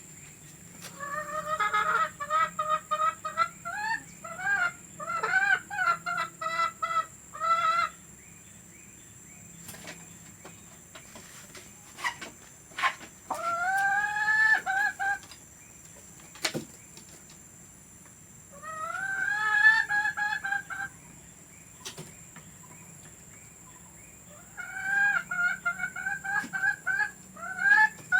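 Domestic hen cackling: runs of quick repeated clucks, then several longer drawn-out calls with pauses between.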